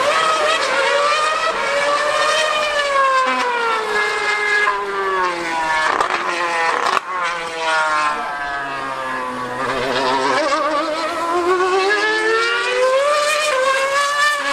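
A 2013 Formula 1 car's naturally aspirated V8 screaming at high revs as it laps the circuit. Its pitch climbs and falls again and again through gear changes, sinks lowest about ten seconds in, then climbs once more near the end.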